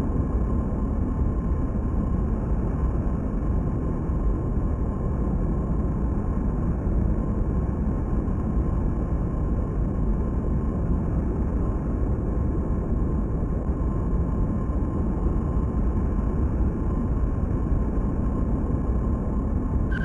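Large jet aircraft's engines producing a steady, unbroken roar, heaviest in the low end, with a faint steady whine on top.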